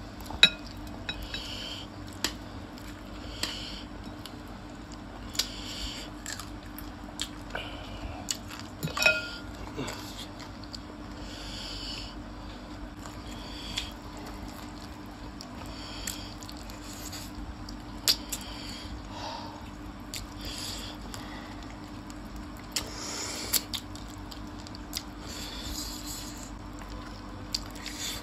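Two people chewing and biting into gravy-coated chicken feet and noodles close to the microphone, with scattered sharp clicks of bone and dishes. The loudest clicks come about half a second in and near nine seconds.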